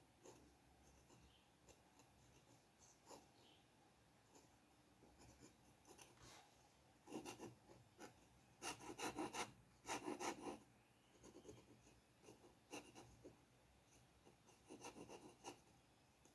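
Drawing strokes scratching on paper in short bursts. A cluster of quick, louder strokes comes around the middle, another burst near the end, and faint scratches fall in between.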